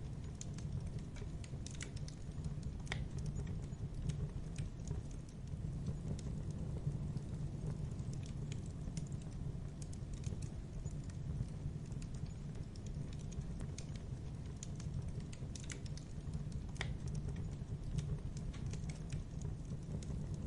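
Wood fire burning in a fireplace: a steady low rumble of the flames with irregular crackles and snaps.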